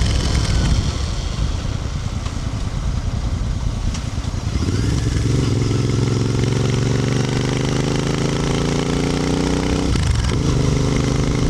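Royal Enfield Interceptor 650's parallel-twin engine on the move. For the first four seconds or so it runs rough and uneven, then it pulls with the engine note rising slowly for about five seconds. About ten seconds in there is a short break for a gear change, after which the note picks up lower and climbs again.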